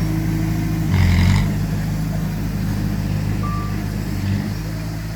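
Heavy diesel machinery engine running steadily. About a second in there is a brief rush of noise as the engine swells. A little past three seconds in there is a single high reversing-alarm beep.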